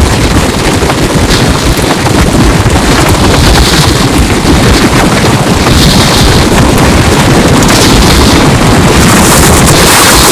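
Strong wind from a tornado blasting the microphone: a loud, distorted rush of noise with gusts flaring up every couple of seconds.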